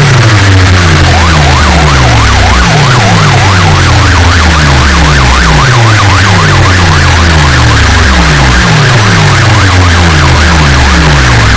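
Very loud DJ music from sound-box loudspeaker stacks: falling bass sweeps repeating about twice a second over a heavy bass line, with a fast wailing siren effect coming in about a second in.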